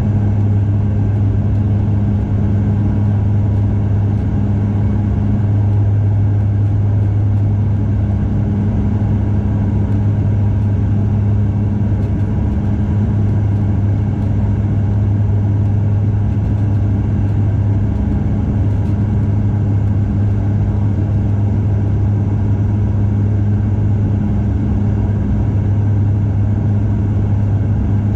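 Steady cabin drone of a Bombardier DHC-8-Q400 turboprop airliner's engines and propellers: a constant low hum with one strong deep tone and its overtone over a broad rumble.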